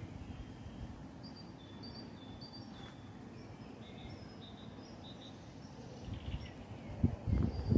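Small birds chirping in a park: a run of short, high notes at shifting pitches over a low, steady background rumble. A few louder low bumps come near the end.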